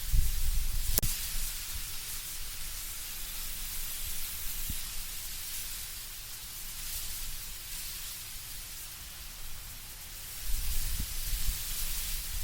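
Wind blowing through autumn trees with leaves rustling: a steady high hiss, with gusts of low rumble at the start and again near the end, and one faint click about a second in.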